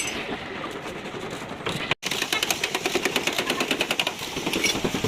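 A power tool rattling rapidly, about ten strikes a second, working on car bodywork, starting after a short break about two seconds in.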